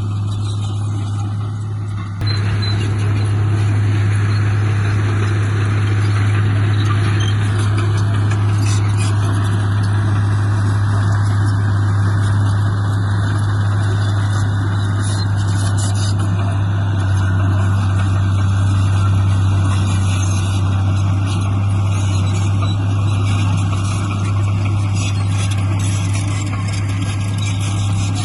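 Diesel engine of heavy earthmoving machinery running steadily with a deep drone, stepping up in loudness about two seconds in as it takes on more load or revs.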